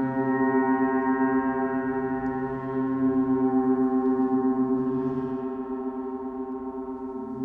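Planet-tuned gongs ringing on in a sustained wash of overtones with a slow pulsing shimmer. The sound swells again about three seconds in, then slowly fades.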